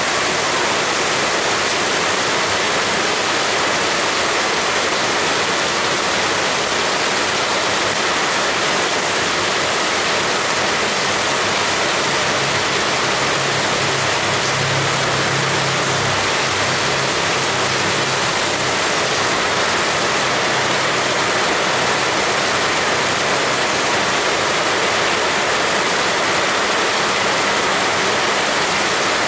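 Heavy rain pouring steadily, an even, unbroken hiss. A faint low hum joins in for about ten seconds in the middle.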